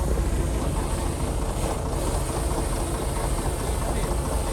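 Heavy diesel engine of a Shantui bulldozer running steadily, a continuous low rumble with no pauses or sharp knocks.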